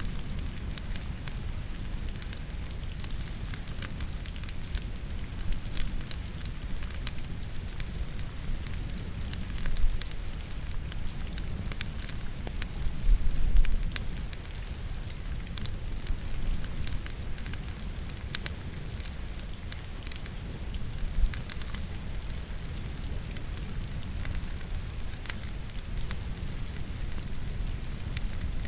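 Wood logs burning in a fireplace: irregular crackles and pops over a steady low rumble, blended with falling rain. A few louder low thuds come about ten, thirteen and twenty-one seconds in.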